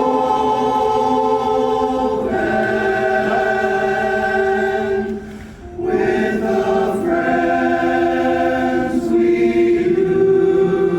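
Barbershop chorus singing a tag a cappella, split between the lead and tenor lines, holding long sustained chords that change a few times, with a short break about five and a half seconds in before the next held chord.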